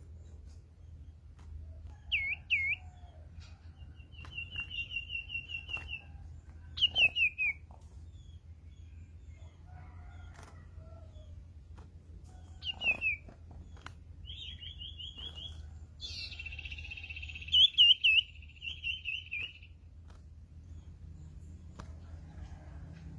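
Sirtu songbird calling: short, curved, whistled notes and fast chattering trills, in bursts a few seconds apart, the loudest burst near the end, over a faint low hum.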